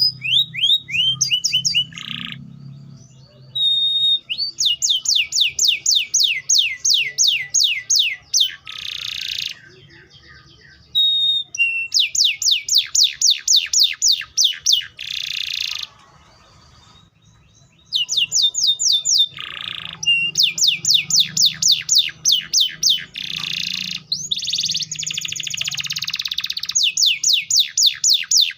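Domestic canary singing: long rolling trills made of quick, evenly repeated sweeping notes, broken by harsh buzzy notes and two short pauses.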